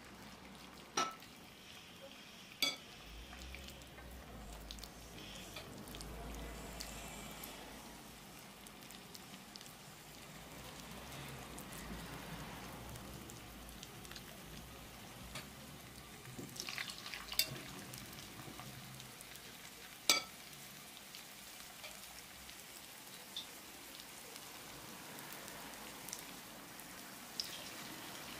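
Grated potato patties frying in hot oil in a frying pan, with a steady sizzle and a few sharp clicks.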